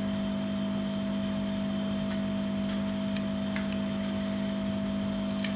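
Steady electrical hum with a thin higher whine, with a few faint ticks and clicks as the smartphone's back panel, held on by double-sided tape, is prised and peeled away.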